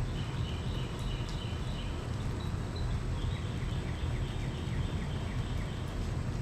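Outdoor storm-night ambience: a steady low rumble under repeated high chirping from small animals, with a run of quick, short chirps about two a second in the middle.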